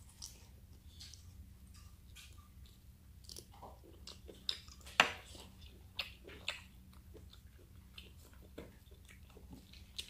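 A person chewing squid close to the microphone: scattered wet smacks and clicks of the mouth, the sharpest one about five seconds in, over a steady low hum.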